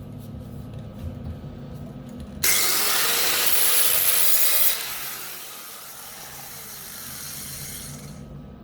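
Angle grinder grinding down a MIG plug weld on a steel coupon: a loud burst of about two seconds of grinding, then a quieter run-down as the disc is lifted off and slows, its pitch falling.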